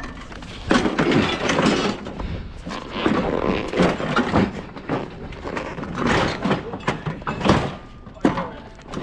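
Repeated clattering, scraping and thuds of discarded scrap being grabbed, moved and loaded.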